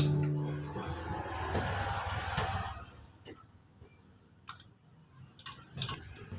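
Background music cutting off at the start, then a few faint, scattered clicks and knocks.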